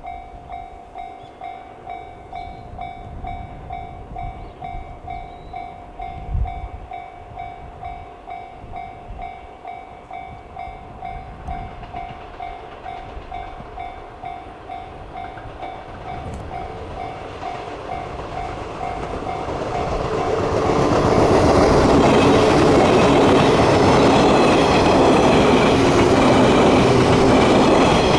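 A railway level-crossing alarm bell clangs at about two strikes a second. About twenty seconds in, an electric train passes close by, its running noise rising and drowning out the bell to the end.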